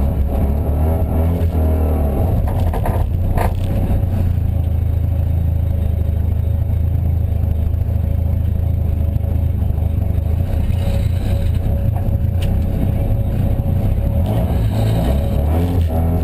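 Car running with a loud, steady low drone, recorded as an abnormal noise; a sharp click sounds about three and a half seconds in and another about twelve and a half seconds in.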